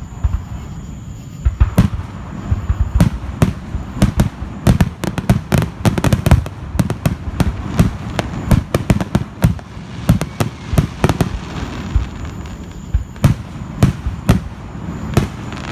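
Fireworks going off: a rapid, irregular string of sharp bangs and crackles, densest through the middle and thinning out near the end.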